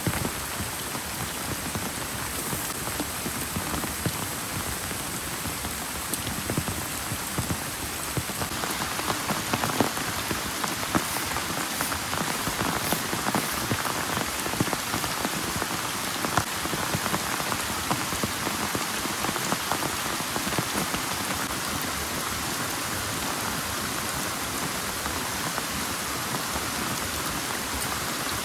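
Heavy rain pouring steadily, with scattered sharper drop hits standing out from the dense hiss.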